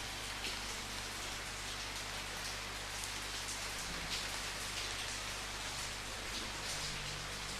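Steady rain falling on a surface, an even hiss with scattered drops ticking.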